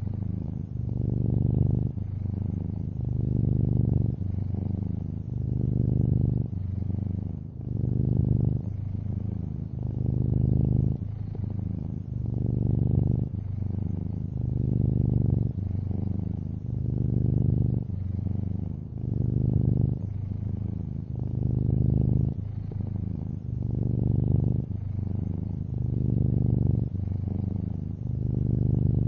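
Domestic cat, a long-haired orange tabby, purring steadily: a low buzz that swells and eases with each breath, about once every two seconds.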